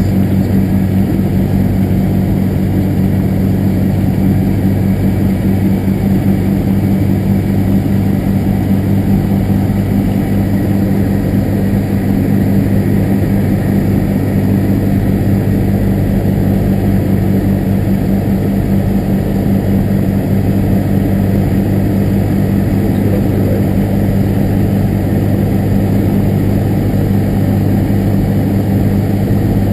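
Cessna 172's piston engine and propeller droning steadily, holding a constant pitch throughout.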